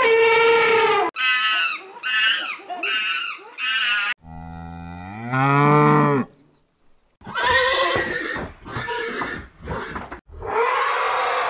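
Several different animal calls one after another. First a steady pitched call that ends about a second in, then a few short calls bending in pitch, then a low call that rises in pitch, and two harsher, noisier calls near the end.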